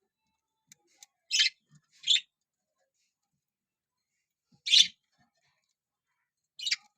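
Budgerigars giving four short, high-pitched chirps, spaced one to two seconds apart.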